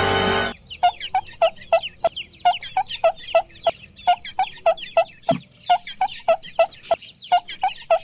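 Chickens clucking: a steady run of short, rapid clucks, about three or four a second.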